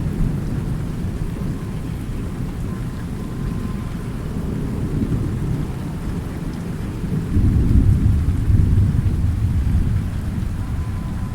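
Thunder rumbling over steady rain. A louder roll of thunder swells about seven seconds in and eases over the following few seconds.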